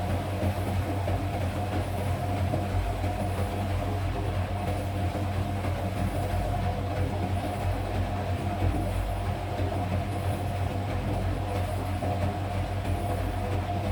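Front-load automatic washing machine running in its spin cycle: a steady low hum with a continuous rumble.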